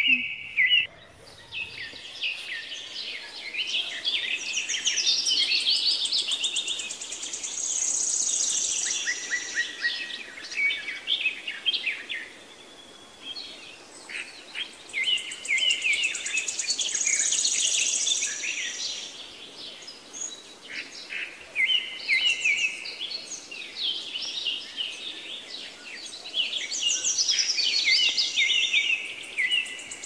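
Songbird singing: bouts of rapid chirps and trills, each ending in a high buzzy phrase, the same sequence returning about every nine seconds.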